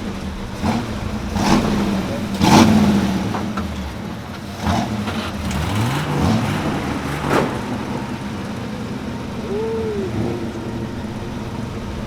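Car engine revving and accelerating, loudest about two and a half seconds in, with the pitch climbing again around five seconds in.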